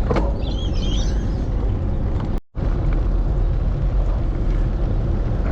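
Wind buffeting the microphone of a bike-mounted camera while cycling, a steady low rumble that cuts out for a moment about two and a half seconds in.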